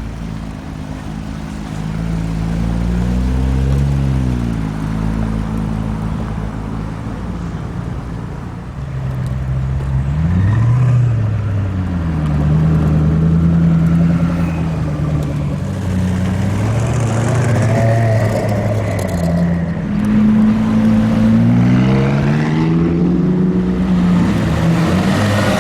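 Sports car engines revving as cars drive past, their pitch rising and falling several times.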